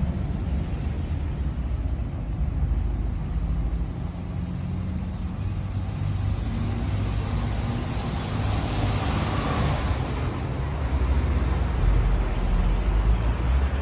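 Steady low rumble of motor vehicle noise, swelling about two-thirds of the way through as something passes.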